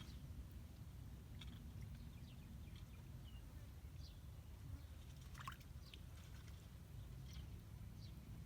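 Faint, steady low rumble of water, with scattered small clicks and short high chirps.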